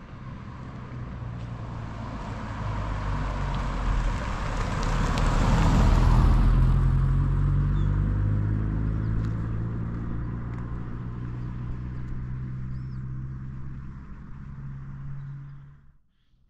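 A motor vehicle's engine running, growing louder to a peak about six seconds in and then fading, as if passing by. It cuts off suddenly near the end.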